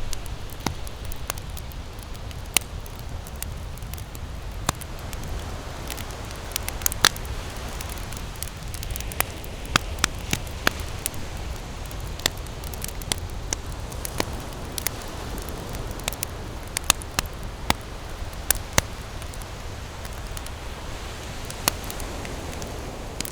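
Blazing wood campfire crackling, with irregular sharp pops and snaps, a few louder than the rest, over a steady low rumble.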